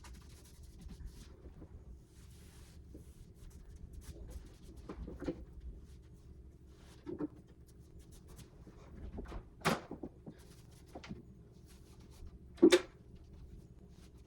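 Scattered light knocks and clicks in a small room, with two sharper, louder knocks about ten and thirteen seconds in, over a low steady hum.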